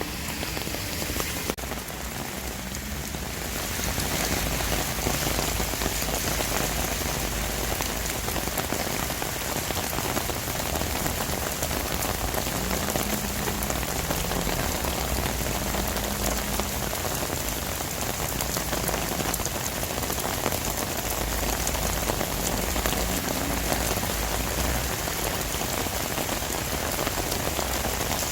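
Heavy downpour of rain pouring down in a dense, even wash, growing louder about four seconds in and then holding steady.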